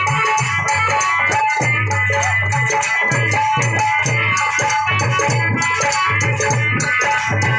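Dhol and harmonium playing a folk devotional tune: a steady rhythm of deep dhol strokes under the harmonium's sustained reedy chords, with quick high percussion strikes on top.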